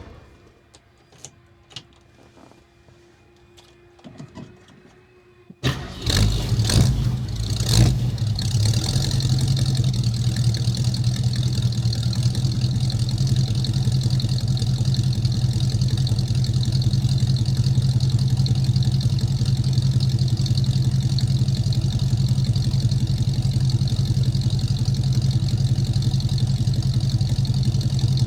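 1967 Ford Mustang GT Fastback's V8 engine cold-started: after a few seconds of quiet with faint clicks, it cranks and catches about five and a half seconds in, revs up a few times over the next two seconds, then settles into a steady idle.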